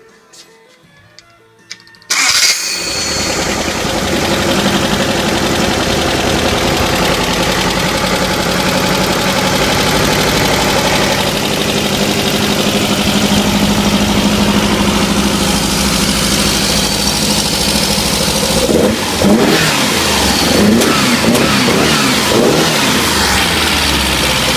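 2332 cc air-cooled VW flat-four engine cranking and starting about two seconds in, then running loud and steady, with a few blips of the throttle revving it up and down near the end.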